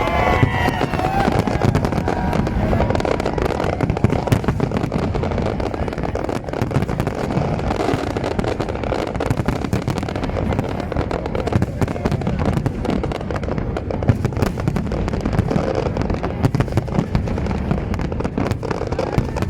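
Fireworks display going off continuously: a dense run of bangs and crackles, with a few whistling glides at the very start.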